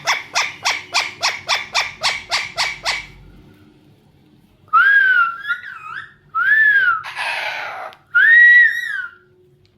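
Pet parrot calling: a fast run of sharp repeated notes, about five a second, for the first three seconds. After a pause it gives a few whistles that rise and fall in pitch, mixed with harsh squawks.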